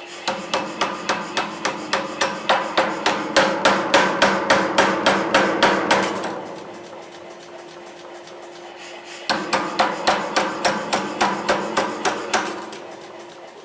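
Forging hammer blows on steel at the anvil, about four sharp ringing strikes a second in two runs with a pause of about three seconds between them. A steady hum runs underneath.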